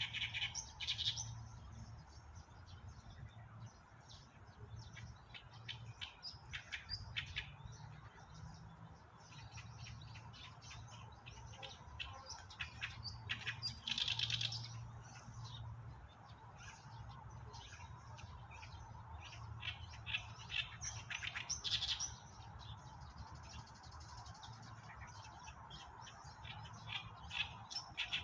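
Wild birds in a forest chirping and calling: many short, high chirps scattered throughout, with louder bursts of calls here and there. A steady low rumble runs underneath.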